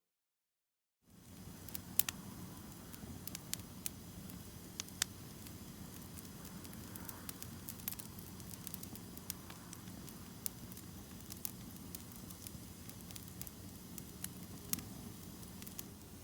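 Wood campfire crackling: scattered sharp pops and snaps over a low, steady hiss, starting after about a second of silence.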